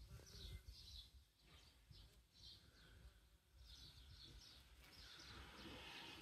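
Small birds chirping faintly in short, quick repeated calls, over a low rumble. A fainter, wider hum swells near the end.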